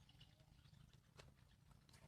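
Near silence: faint room tone with a low hum and a couple of faint clicks.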